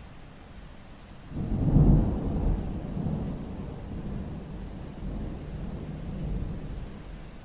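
A peal of thunder breaks about a second in, then rumbles on and slowly fades, over steady rain.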